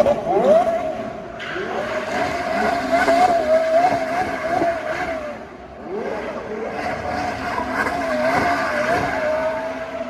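Porsche Carrera GT's 5.7-litre V10 revving hard, its pitch climbing sharply three times and in between holding high and wavering.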